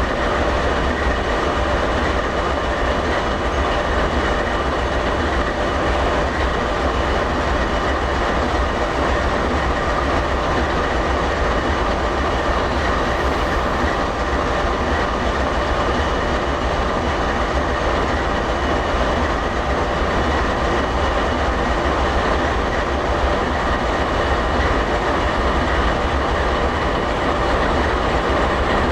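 A train's steady rumbling rail noise, even throughout with a deep low rumble underneath and no separate clanks, horn or bell.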